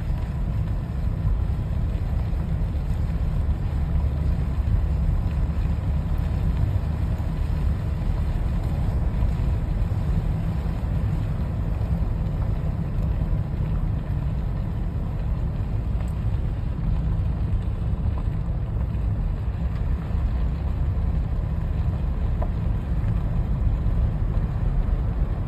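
Steady low rumble of a moving vehicle's road and engine noise, unchanging throughout.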